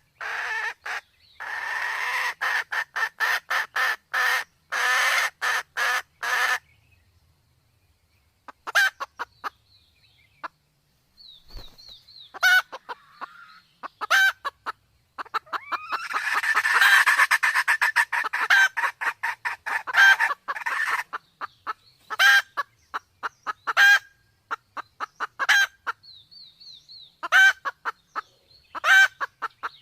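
Red junglefowl calling, mostly quick runs of clucks: a fast run at the start, sparse clucks through the middle, another dense run, then single clucks about a second apart. These are calls of a hen in breeding condition, mixed with a cock's.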